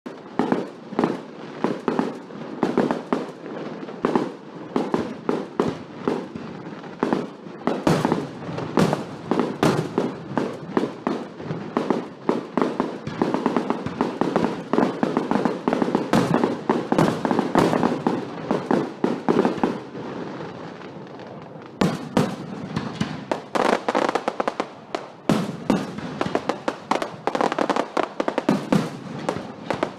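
Fireworks going off in a dense barrage of bangs and crackling, easing briefly about two-thirds of the way through before another run of sharp bangs.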